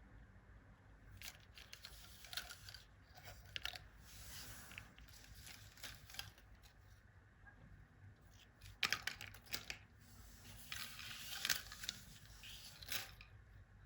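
Irregular clicks, crinkles and tearing of small objects being handled, in clusters a second or two in and again in the second half.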